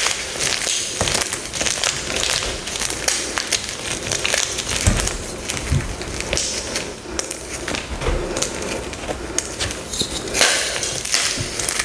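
Deep-dyed gym chalk blocks being crushed, a continuous run of crisp crunches and crackles.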